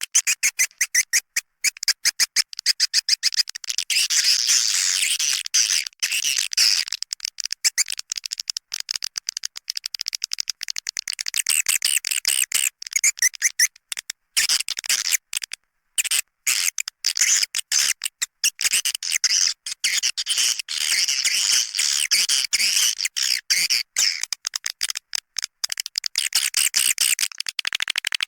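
Swiftlet lure sound: a dense, high-pitched chatter of swiftlet chirps and rapid clicks, broken by brief gaps, played as a call track to draw edible-nest swiftlets into a nesting house.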